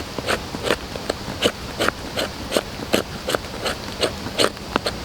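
Knife spine scraping a stick of resin-soaked pine fatwood into fine tinder shavings, in short, rasping strokes about three a second.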